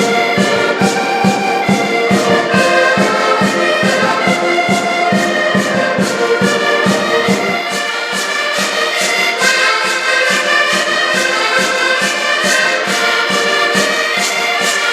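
Live band music with a quick, steady beat under held chords.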